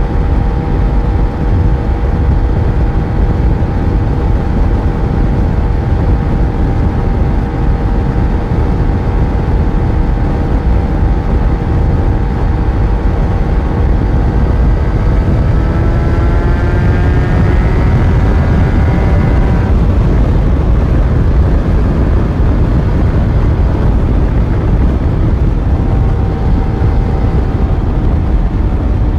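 Yamaha FZ1's inline-four engine under way, holding a steady pitch, then rising as it accelerates for about five seconds before dropping suddenly about two-thirds of the way in, as on a gear change or throttle closing, then steady again. A dense low rumble runs underneath.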